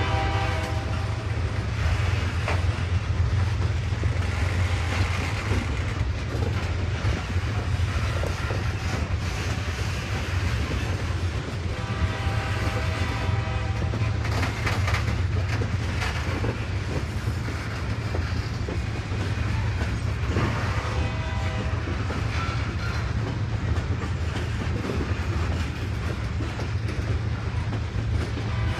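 Train rolling past with a steady, heavy low rumble of wheels on rail. A horn chord sounds and stops about a second in, and fainter tones come and go later.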